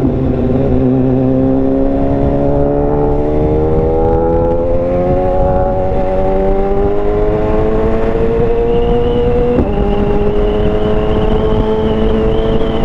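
Wind rushing over a motorcycle helmet with a BMW S1000RR inline-four engine under it, the engine note rising steadily as the bike accelerates, dropping sharply at an upshift about three-quarters of the way through, then climbing again. A thin high whistle comes in over it near the end.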